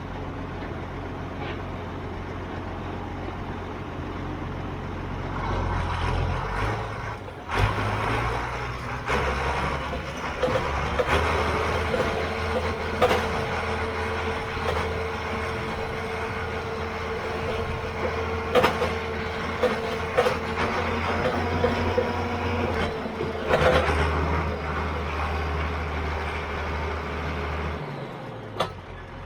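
Farm machinery's diesel engine running steadily under way, with scattered clunks and rattles and a steady whine through the middle; the engine note drops away near the end.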